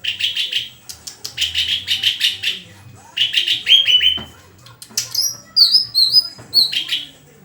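Leafbird (murai daun) singing: short bursts of rapid, repeated chirping notes, then a run of quick falling whistles in the second half.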